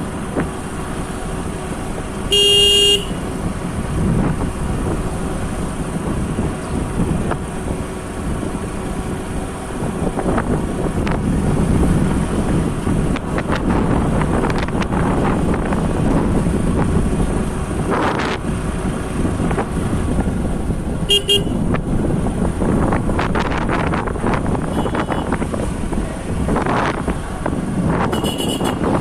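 Road and wind noise of a motorcycle ride, broken by a vehicle horn: a loud half-second honk about two and a half seconds in, a short toot about 21 seconds in, and another brief toot near the end.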